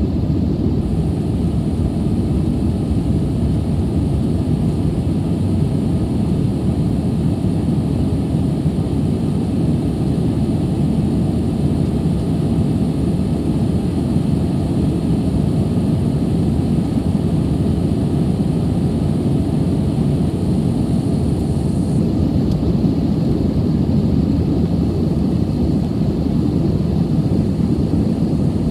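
Steady cabin noise of an Airbus A320 in flight, jet engine and airflow noise heavy in the low end, with a faint high whine that cuts off about three-quarters of the way through.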